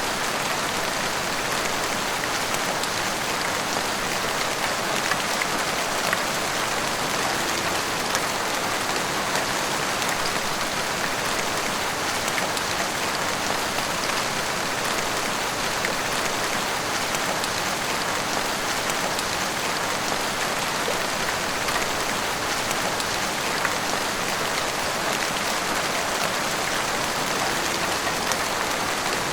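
Heavy rain pouring steadily, a dense even hiss of rain on rooftops and the street with scattered individual drop ticks.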